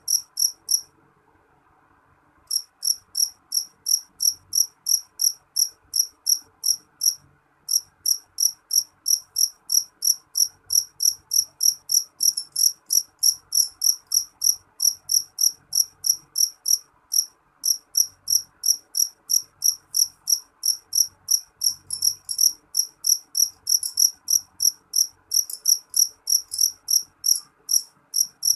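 Black field cricket (jangkrik jeliteng) calling loudly: a steady train of short, shrill chirps at one pitch, about three a second, falling silent for a second or so near the start and again briefly about seven seconds in.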